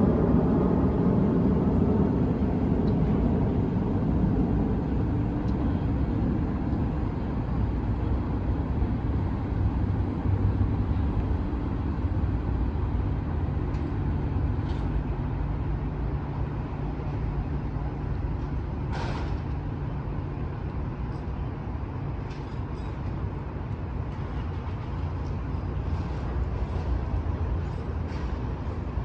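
Liebherr T 264 mining haul truck driving off, its heavy low rumble loudest at first and fading gradually as it moves away. A brief sharp sound comes about two-thirds of the way through.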